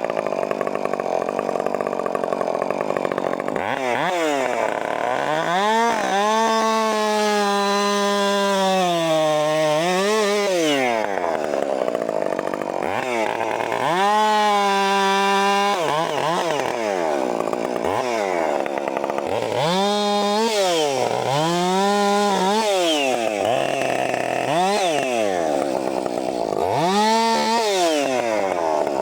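Two-stroke chainsaw revved hard again and again: the engine climbs to a high, held full-throttle pitch for a few seconds at a time, dips, then drops back toward idle before the next rev.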